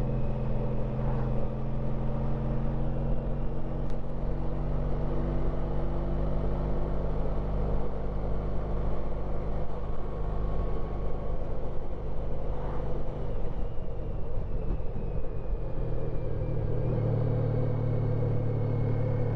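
Honda ST1300 Pan European's V4 engine running steadily under way, heard from the bike; the engine note shifts and deepens about two-thirds of the way through.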